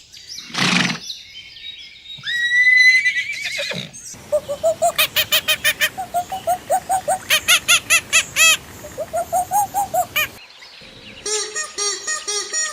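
A series of animal calls: a short call, then a rising call about two seconds in, then a long run of quick repeated pitched calls, about five a second, with a lower run of repeated calls near the end.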